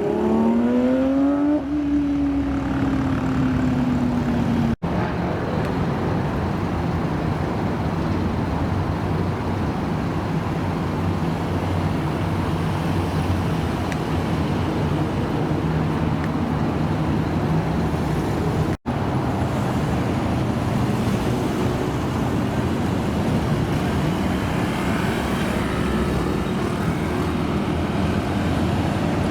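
Car engines: one revs up, then falls in pitch as it pulls away during the first few seconds. After that comes a steady low engine hum from idling cars with traffic noise, broken by two brief dropouts.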